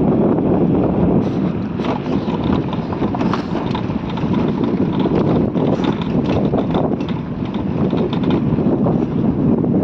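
Wind buffeting the microphone on a moving motorcycle, a steady rushing noise with scattered short rattles and knocks from the rough road.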